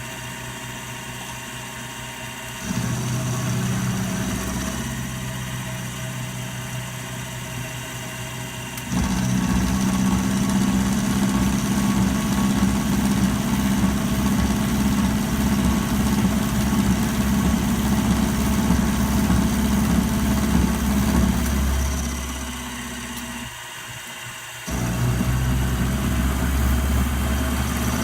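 Electric motor of a metalworking machine tool running with a steady hum that grows louder twice, fades and cuts out briefly near the end, then picks up again. The jumps in loudness are typical of the cutter engaging the metal.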